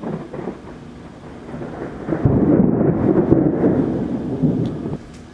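Thunder during a severe thunderstorm: a crackling rumble that builds about two seconds in, stays loud for a couple of seconds, then cuts off abruptly near the end, with rain underneath.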